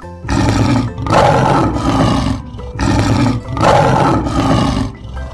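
Lion roaring: about four loud, rough roars in quick succession, each lasting about a second.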